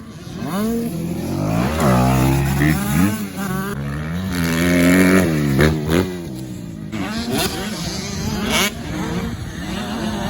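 Motocross dirt bike engines revving on a track, climbing and dropping in pitch several times as the bikes accelerate and shift.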